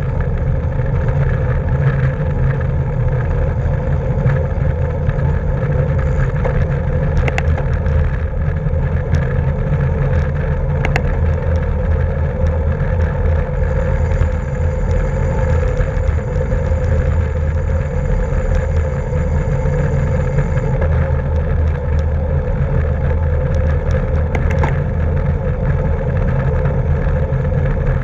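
Steady wind rush and road noise of a road bicycle moving at racing speed, picked up by a camera carried on the bike or rider, with a few sharp clicks.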